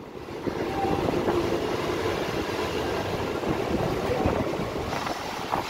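Mumbai suburban local (EMU) train running, heard from its open doorway: a steady rumble and rattle of wheels on the rails that gets louder within the first second.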